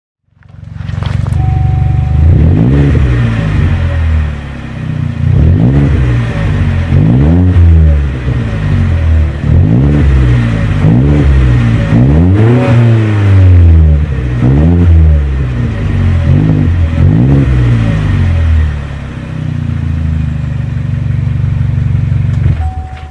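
Chevrolet Cruze 1.4L turbo four-cylinder through a Trubendz cat-back exhaust, idling and then free-revved in a series of about nine quick blips, each climbing and dropping back, before settling to idle again.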